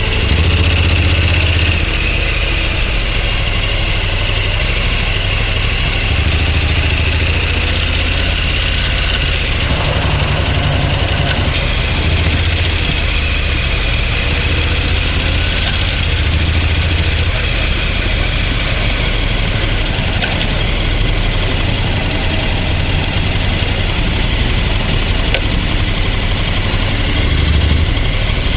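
An engine running steadily: a low drone with a hiss over it.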